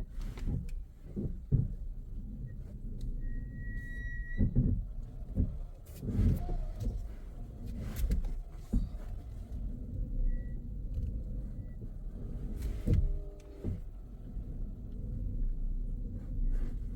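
Inside a moving car: steady engine and tyre rumble, broken by several sharp knocks and thumps. A short high electronic tone sounds for about a second around three seconds in, and again briefly near ten seconds.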